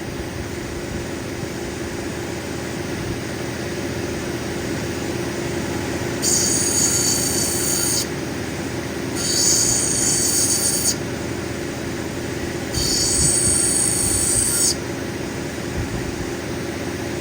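Cabbing machine's diamond grinding wheel running steadily. Three times, for a second or two each, a loud high-pitched screech rises over the motor as the opal is pressed against the wheel and ground along its edge.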